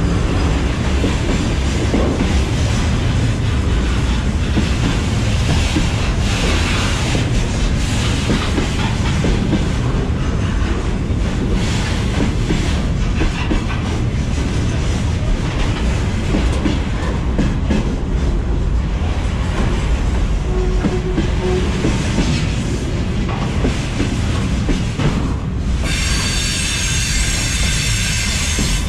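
Steel wheels of a freight train's wagons rolling over the rails directly above, a loud, steady, heavy rumble with wheel clatter. About three seconds from the end a high ringing sound joins in.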